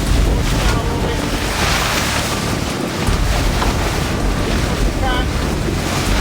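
Wind buffeting the microphone and water rushing past the hull of a sailing catamaran under way, a steady loud rush with a deep rumble. A brief squeak comes about five seconds in.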